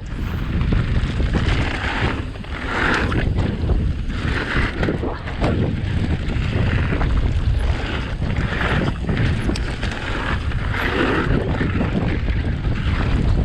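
Heavy wind buffeting on the microphone of a camera riding along on an e-bike, over a continuous low rumble of the ride, swelling and easing every second or two.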